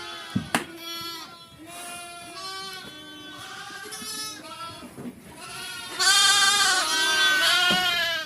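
A herd of sheep and goats bleating, many calls overlapping, with a louder chorus of bleats in the last two seconds. Two sharp clicks come about half a second in.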